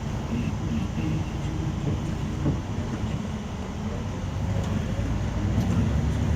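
Scania coach bus driving, heard from inside the passenger cabin: a steady low rumble of engine and road noise.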